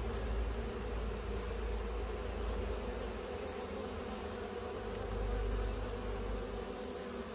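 Honeybees from an open hive buzzing in a steady, continuous hum, with a low rumble underneath.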